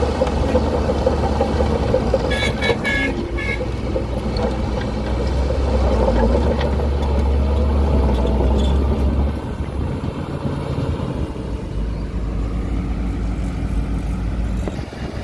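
Heavy diesel engine of earthmoving machinery running steadily, louder for a few seconds mid-way then easing off about nine seconds in. A few short high-pitched beeps or squeals come close together about three seconds in.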